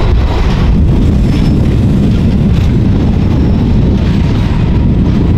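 Passenger train running: a loud, steady low rumble.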